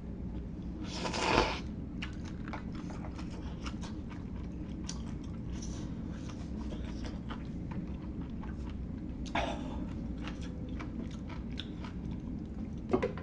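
A person chewing hot-pot food close to the microphone, with many small wet mouth clicks and crunches over a steady low hum. Two short, louder airy rushes come about a second in and again near the ninth second, and a sharp double click comes near the end.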